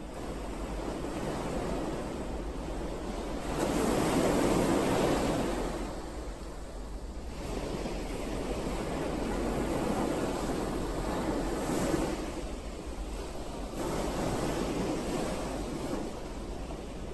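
Ocean waves washing in, swelling and fading three times, the loudest surge about four seconds in.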